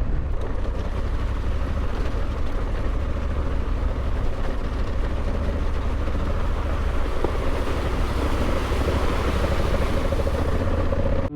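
Honda Africa Twin 1100's parallel-twin engine running steadily while the motorcycle is ridden, a continuous low rumble with a rush of wind and road noise over it.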